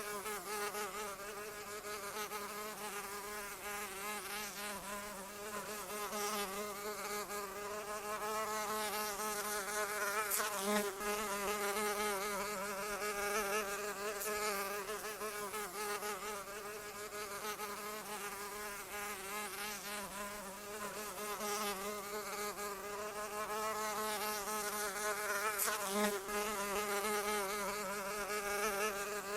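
A flying insect's wings buzzing continuously: a drone with many overtones whose pitch wavers constantly, swelling and fading slightly in loudness.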